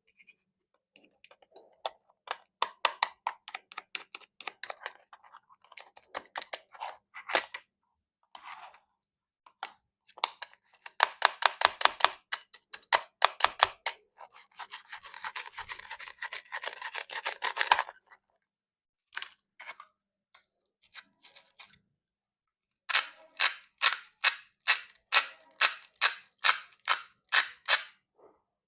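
Plastic toy fruit being cut, making runs of sharp plastic clicks and crackles: scattered at first, a dense rapid crackle in the middle, then a steady series of about two to three clicks a second near the end.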